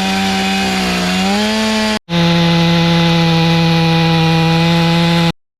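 Chainsaw running at high revs, cutting wood, its engine note steady. The sound drops out for an instant about two seconds in, then stops abruptly near the end.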